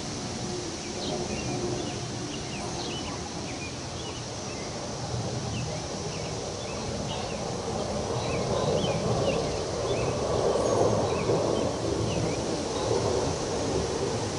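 Wind blowing through trees and rustling the leaves, swelling louder about eight seconds in, with small birds chirping repeatedly.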